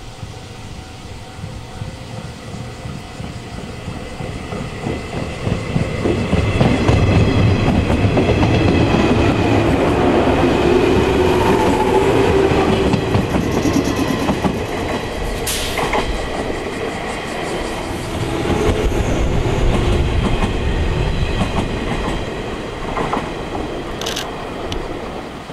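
115 series electric multiple unit running past close by: the sound builds from a distance into loud running noise with wheels clattering over rail joints, then eases off.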